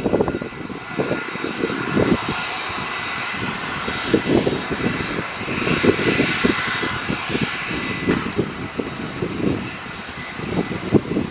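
Airbus A320neo jet airliner's CFM LEAP-1A turbofan engines running with a steady whine. A high tone in the whine cuts out about eight seconds in. An irregular low rumble runs underneath.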